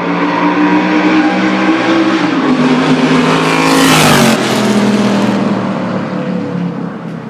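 Triumph TR8 race car's V8 engine passing close by under power. It grows louder to a peak about four seconds in, drops in pitch as it goes past, then fades away. The uploader says the engine is dying.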